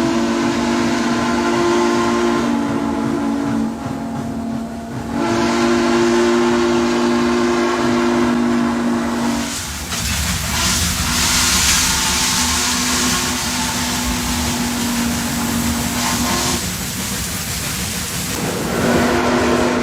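Steam locomotive chime whistle blowing a series of long blasts, several notes sounding together, with a loud hiss of steam under the middle stretch.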